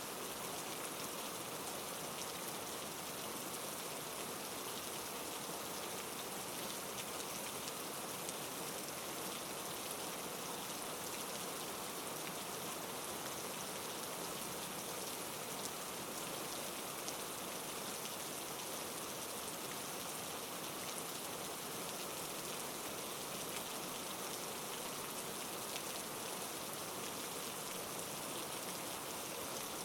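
Heavy rain falling, a steady hiss with a dense patter of individual drops.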